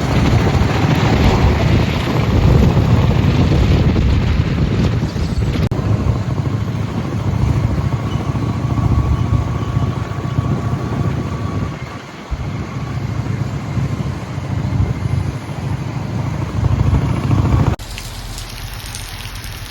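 Motorcycle riding, with engine and road noise under heavy wind buffeting on the microphone; the sound drops abruptly at a cut near the end.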